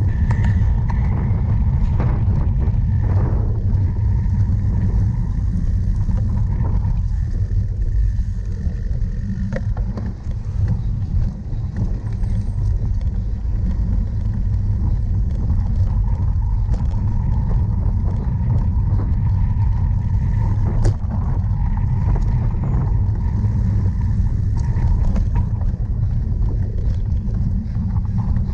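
Steady low rumble of wind and ride vibration from a cyclocross bike being raced over rough ground, with scattered clicks and rattles; one sharp knock about 21 seconds in.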